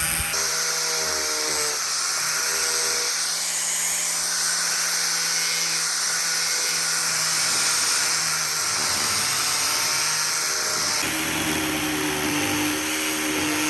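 A power tool running steadily with a high-pitched whine and hiss; the sound changes abruptly about eleven seconds in.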